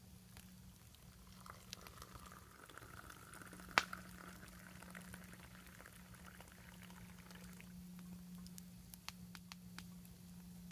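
Food cooking over a campfire: a steady bubbling hiss that swells for a few seconds, with small crackles throughout and one sharp pop about four seconds in.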